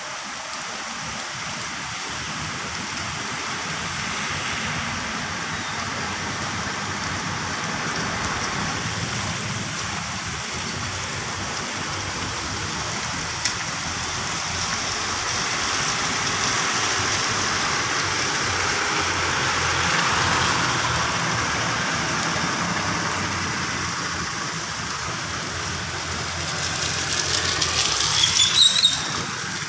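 Heavy rain falling steadily, a dense hiss that swells gradually toward the middle and eases off again, with a louder, rougher passage near the end.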